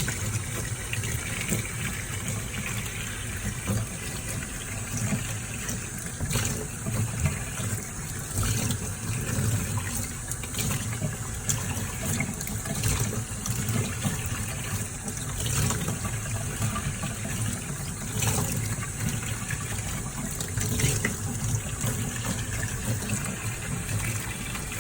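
Running water pouring steadily, as for a bath, with a few brief sharper sounds on top.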